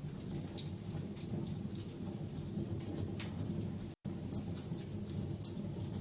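Wood fire burning with a steady low rumble and scattered sharp crackles and pops. About two-thirds of the way through, the sound cuts out completely for a split second, then carries on.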